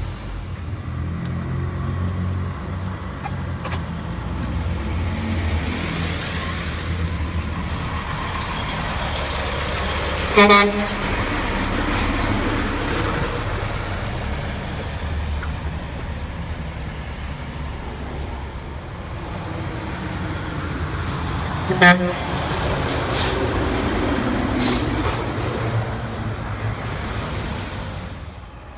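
Heavy truck engines rumbling by, with two short blasts of a truck horn, about ten seconds in and again about twenty-two seconds in.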